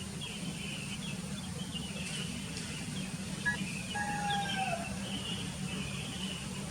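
Birds chirping busily, with one clearer whistled call that slides down in pitch about four seconds in, over a steady low hum.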